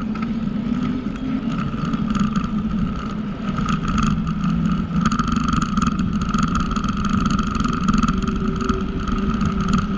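Bicycle riding along a paved trail: a steady mechanical whirring from the drivetrain and tyres, with no break.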